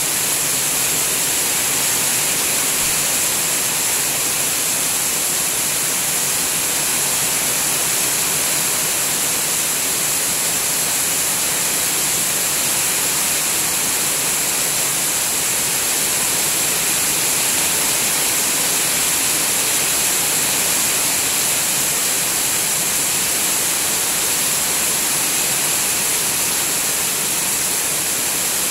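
Heavy rain pouring steadily into a pond and onto surrounding foliage: an even, unbroken hiss that holds at the same level throughout.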